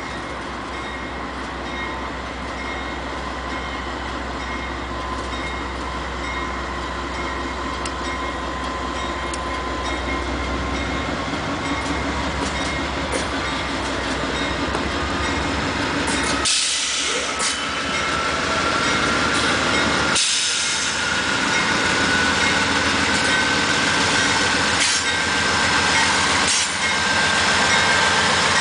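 GE AC44CW diesel-electric locomotives leading a coal train, running as they approach and start to pass, growing steadily louder. A faint whine sits over the rumble and rises slightly in pitch in the second half.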